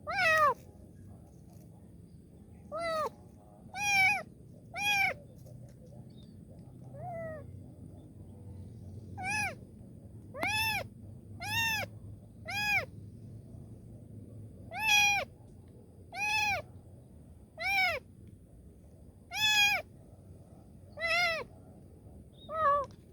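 A kitten meowing over and over, about fifteen short calls that each rise and fall in pitch, coming roughly once a second with a few longer pauses; the kitten is crying out for help.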